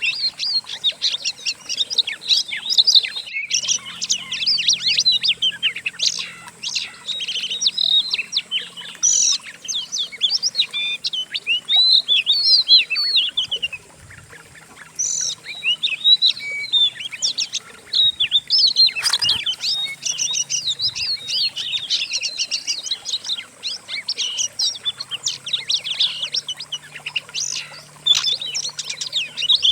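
Several songbirds singing together in a dense run of rapid chirps, whistles and trills, mixed into a masteran recording for teaching kacer (Oriental magpie-robins) new song. There is a short lull about halfway through and a sharp click a little later.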